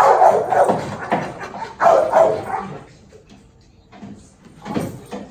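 Excited, leash-reactive dog barking: loud barks and yips in the first three seconds, then a lull and one more short bark near the end.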